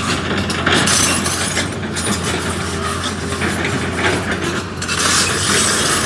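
Train running along the track, heard from on board: continuous wheel-and-rail noise over a steady low drone, growing louder about five seconds in.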